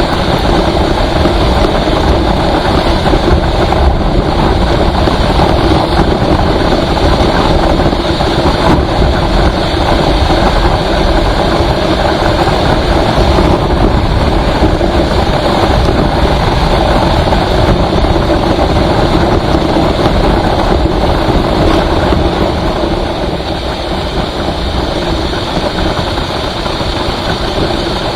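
Steady engine and road noise of a vehicle driving, easing a little in loudness about three quarters of the way through.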